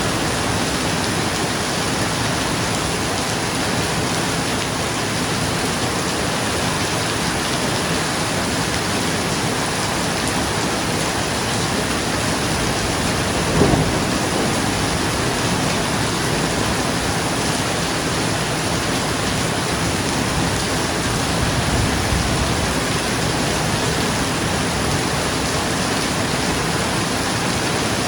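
Steady rain falling on a roof, with a short, sharp crack of thunder about halfway through and a softer low rumble of thunder later.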